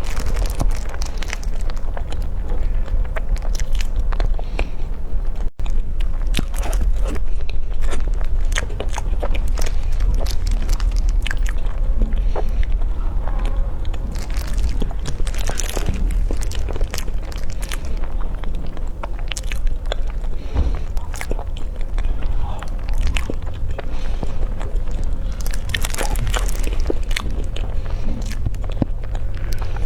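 Close-miked eating: a person biting and chewing food, with many small, irregular crisp clicks and crunches, over a steady low hum.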